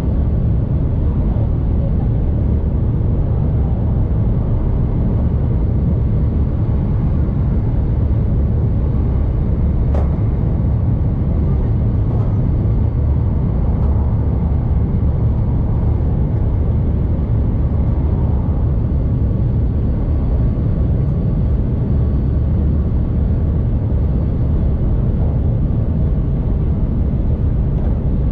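Tohoku Shinkansen train running, heard from inside the passenger cabin: a steady low rumble with a fainter hiss above it, and one short click about ten seconds in.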